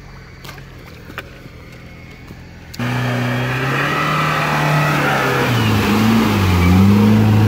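Lada Niva's engine working hard as it pushes through a deep muddy ford, with water surging around the wheels. It comes in suddenly about three seconds in, its pitch falling and rising as the throttle is worked. Before that only a faint distant engine hum and a few light clicks are heard.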